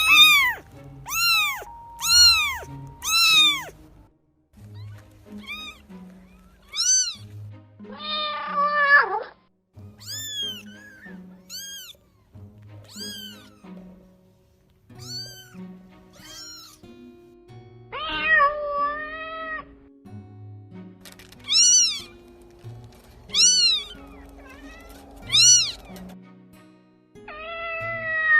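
Cats meowing over and over: mostly short meows that rise and fall, in quick runs, with a few longer drawn-out meows about eight seconds in, near two-thirds through and at the end. Soft background music plays underneath.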